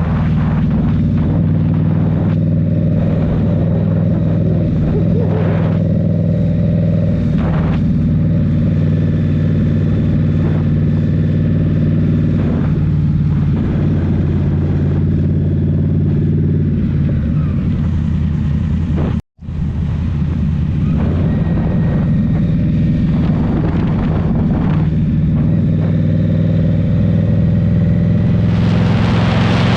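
2023 Indian Scout Rogue's 69 cu-in V-twin with a Rinehart slip-on exhaust, running at a fairly steady engine speed while riding. The sound drops out for a split second about two-thirds of the way through, and a loud rushing noise rises near the end.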